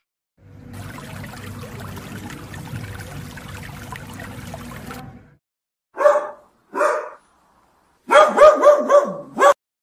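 Water bubbling and rushing for about five seconds, then a dog barking: two short yips a little apart, followed by a quick run of high yips.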